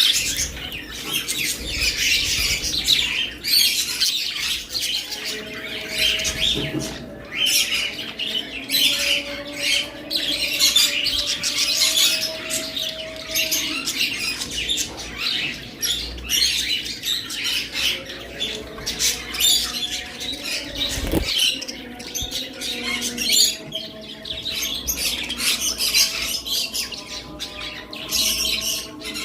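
Budgerigars chirping and chattering continuously, many short calls packed close together.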